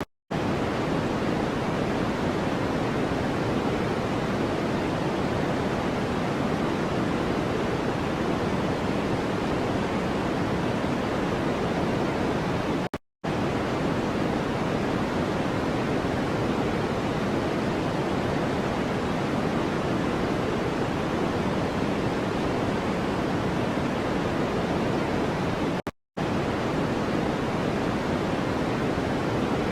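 Steady noise-machine style hiss, deep and even rather than bright, with no rhythm or pitch. It cuts out to silence for a split second three times, about 13 seconds apart.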